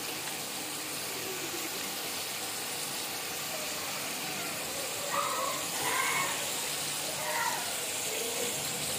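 Chicken pieces sizzling steadily in hot oil in an aluminium karahi while a wooden spatula stirs them and garlic-ginger paste goes in.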